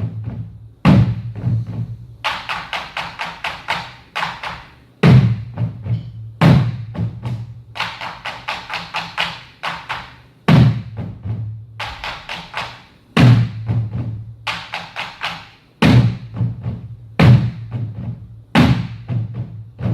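Percussion music: heavy, deep drum strikes every one to three seconds, with fast runs of lighter, crisp clicking strokes between them.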